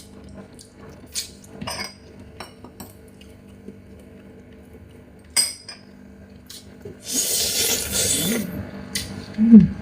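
Eating a Chinese mitten crab: scattered sharp clicks and clinks of shell and tableware, then a longer crackling crunch of shell about seven seconds in. Near the end comes a short, loud hum from the eater.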